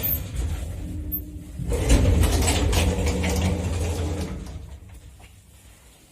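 Mogilev-built lift machinery with an AS-62-6/18 two-speed motor: a low running hum, then a loud mechanical clatter about two seconds in that dies away over the next three seconds.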